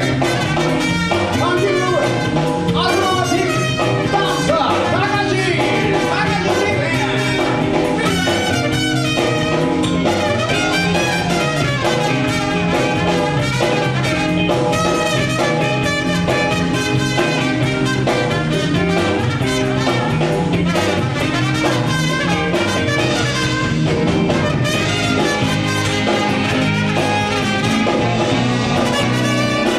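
A live band playing steadily, with brass horns over a drum kit.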